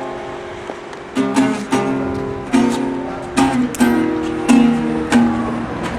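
Acoustic guitar strumming chords, each strum ringing out before the next.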